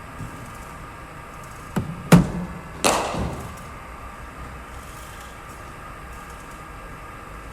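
Cricket bowling machine humming steadily as its wheels spin. About two seconds in it fires a ball with a knock and thud. Under a second later the ball meets the bat with a sharp crack that rings on briefly.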